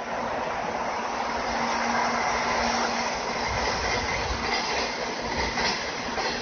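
Electric-locomotive-hauled container freight train rolling past, a steady rumble with the wagons' wheels clacking over rail joints.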